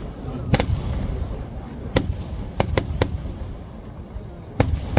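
Fireworks exploding over a continuous low rumble: sharp, irregular bangs, one about half a second in, another at two seconds, a quick run of three around three seconds, and a new volley starting near the end.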